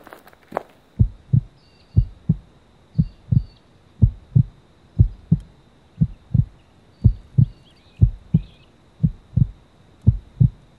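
A slow heartbeat, a low double thump (lub-dub) repeating about once a second, ten beats in a row starting about a second in.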